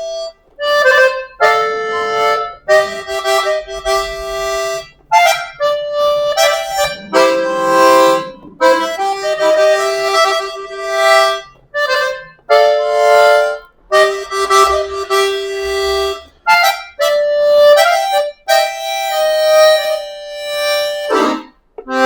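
Accordion played in its clarinet register: a melody in short phrases with brief breaks between them. The instrument has just had a full cleaning and general tuning, and its notes sound bright and lively.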